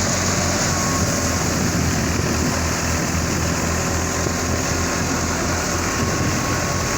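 Tractor engine driving a grain thresher, running steadily with an even low hum and the thresher's wide rushing noise on top.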